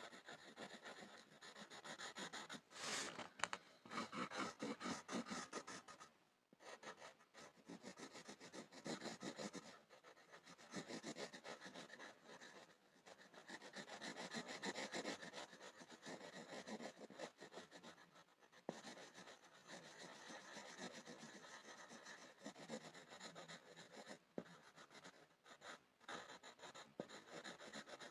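Pencil scribbling on a board: continuous quick scratching strokes of graphite on the surface, with short pauses now and then.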